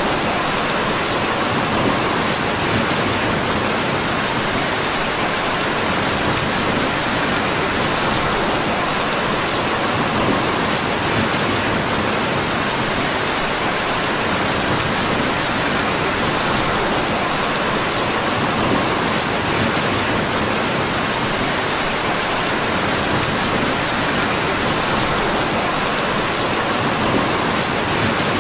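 Steady rain, an even hiss without let-up, with faint small ticks scattered through it.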